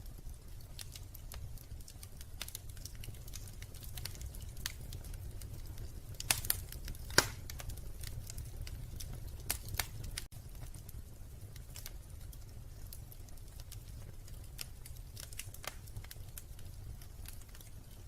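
Wood fire crackling in a fireplace: irregular small snaps and ticks throughout, with a few louder pops around the middle, over a low steady rumble.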